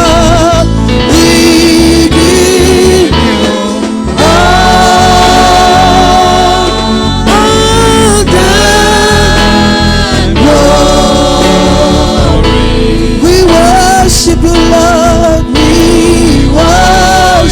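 Gospel praise singing: voices holding long notes with vibrato over a loud band accompaniment.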